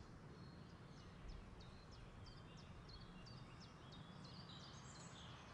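Faint outdoor ambience: a bird giving short, high, downward-sliding chirps, two or three a second, over a steady low rumble of background noise.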